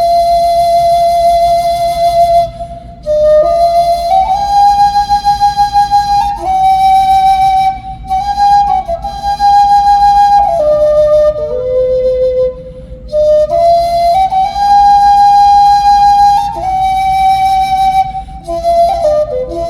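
Music: a flute playing a slow melody of held notes that step up and down, with a wavering vibrato on one note about five seconds in.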